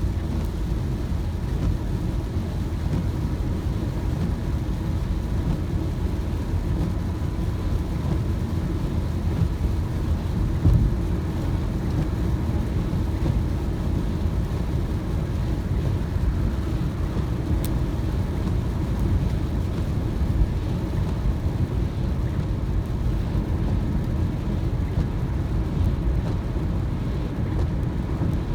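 Car driving on a wet road: a steady low rumble of road and engine noise, with one brief louder thump about eleven seconds in.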